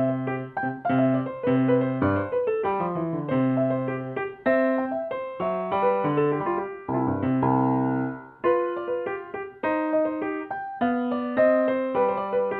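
Solo piano playing a sonatina: short, separately struck notes over a repeated bass, with a descending run about two seconds in.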